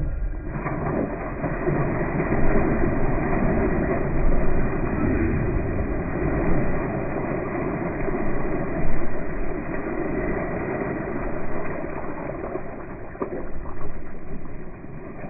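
Steady, muffled rushing noise with a low rumble and no high tones.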